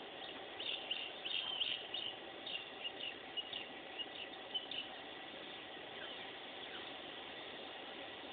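Small birds chirping in quick, short, high notes, busiest in the first half, over faint steady background noise.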